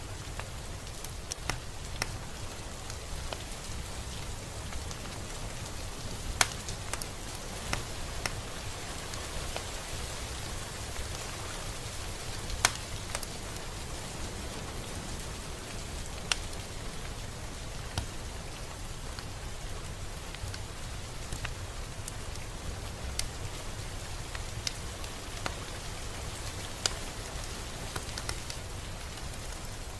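Steady rain falling over a low rumble, with scattered sharp drops ticking on a hard surface; the loudest come about six and about twelve seconds in.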